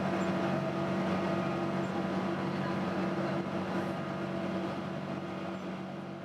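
Boeing 777-200 jet engines droning steadily with a constant hum, fading away over the last couple of seconds.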